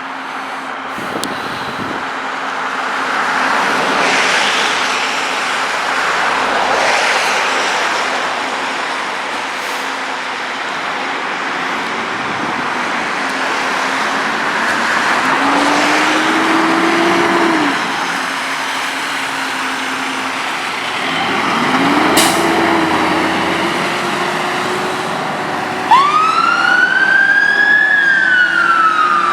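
Volvo FL-290 fire engines' diesel engines running as the appliances pull away on a call, with a sharp click partway through. About three seconds before the end a siren starts, sweeping up in pitch and then falling into a wail.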